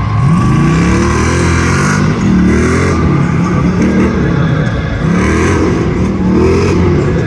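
Racing off-road vehicle engines at full throttle, the pitch climbing again and again, about five times, as they accelerate hard.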